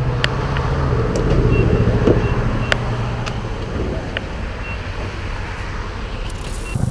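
Motorcycle engine running steadily at low revs, with road noise and a few short clicks.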